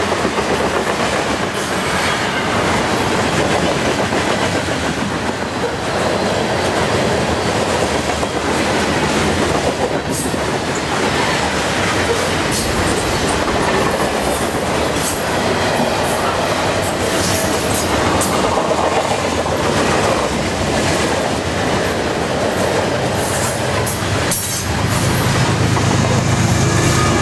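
Loaded grain hopper cars of a long freight train rolling past at speed: a steady rumble with wheels clicking over rail joints and occasional high wheel squeal. Near the end the rear distributed-power diesel locomotive passes, adding a deeper engine rumble.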